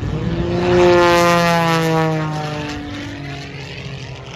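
Propeller airplane flying past, loudest about a second in, then its engine note drops in pitch and fades as it goes away.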